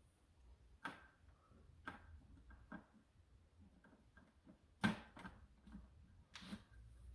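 Scattered plastic clicks and knocks from a D-Dart Blizzard foam dart blaster being handled, its switches and parts worked by hand. About half a dozen separate clicks, the loudest about five seconds in.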